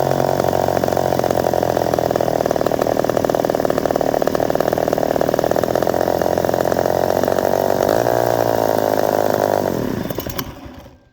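Poulan 306A two-stroke chainsaw engine running steadily. Its pitch wavers briefly about eight seconds in, then it winds down and stops near the end.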